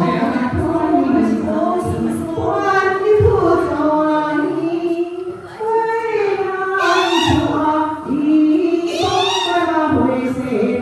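Unaccompanied voices chanting and singing in a wavering, sliding melody, with high swooping vocal rises about two-thirds of the way in and again near the end.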